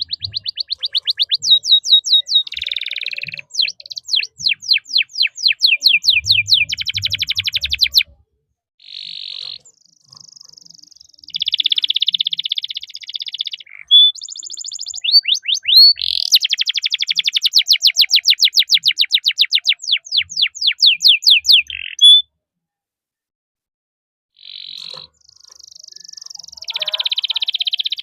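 Domestic canary singing: fast repeated chirping notes strung into long rolling trills, phrase after phrase with short gaps, and one silent break of about two seconds about three quarters of the way through.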